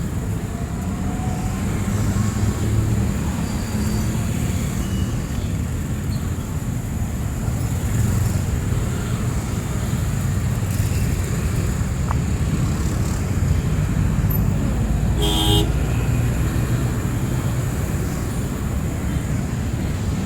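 Road traffic with vehicle engines running as a steady low rumble, and one short horn honk about fifteen seconds in.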